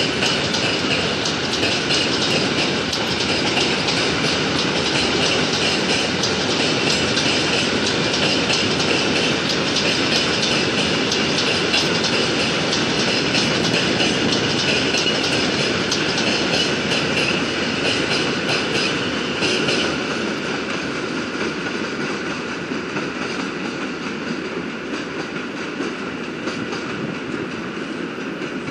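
A train running past on the station tracks: a dense, continuous rumble with a rapid stream of wheel clicks on the rails. It is loud for about the first twenty seconds, then fades gradually as it draws away.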